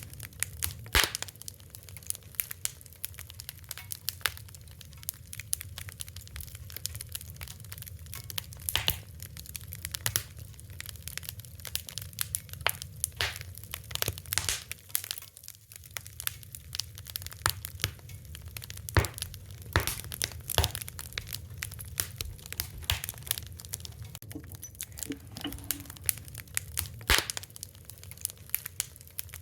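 Wood fire crackling: irregular sharp pops and snaps, some louder than others, over a low steady rumble of the burning.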